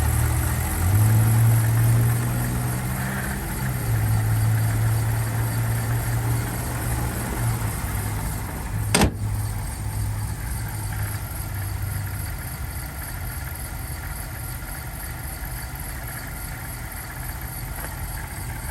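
BMW 745Li's 4.4-litre V8 idling after a cold start, a steady low hum that steps slightly lower in pitch a few seconds in and then grows fainter. A single sharp knock about nine seconds in.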